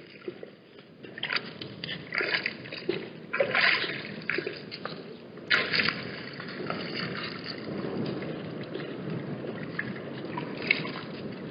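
Water at a watering hole sloshing and splashing in irregular surges, with a steady rushing haze underneath.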